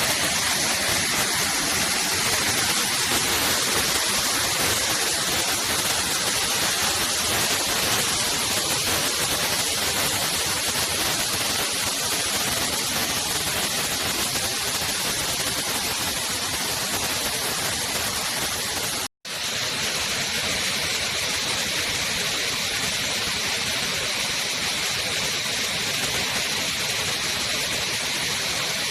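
Waterfall rushing: a steady, dense roar of falling water. It cuts out for an instant about 19 seconds in and resumes with a slightly different tone.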